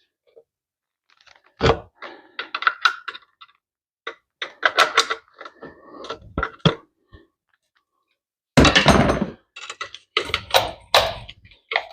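Hand tools clanking and knocking on metal parts while the Ironhead's kickstarter and its return spring are worked loose, in irregular bursts of short knocks with silent gaps, loudest about nine seconds in.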